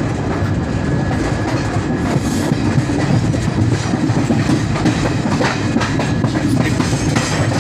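Garib Rath express train running at speed, its wheels clattering over the rail joints under a steady loud rumble, heard from inside a passenger coach.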